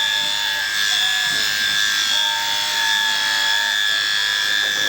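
Electric sheep shears running steadily with a constant high whine.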